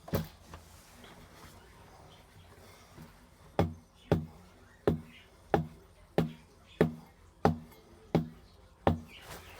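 A single sharp knock, then after a pause of about three seconds nine sharp knocks in an even rhythm, roughly one every two-thirds of a second.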